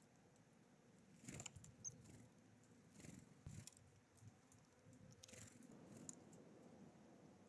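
Faint, scattered rustles and taps of small birds at a seed feeder, with one brief high chirp about two seconds in.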